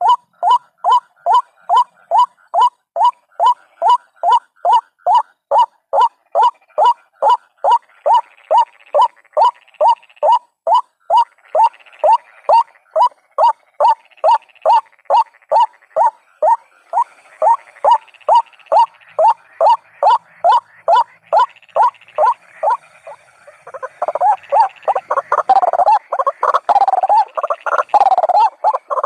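White-breasted waterhen calling: a steady, monotonous run of short, identical calls, about two a second. Near the end it breaks into a louder, faster, jumbled chorus of wavering calls.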